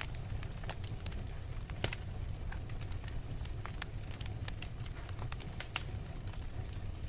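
Wood logs burning in a fireplace, crackling with irregular sharp pops over a low steady rumble. The loudest pops come about two seconds in, and twice in quick succession about five and a half seconds in.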